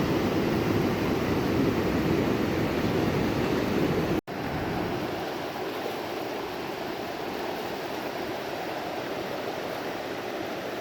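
Steady rushing of a flowing river. About four seconds in it cuts out for an instant and comes back quieter, with less of its deep rumble.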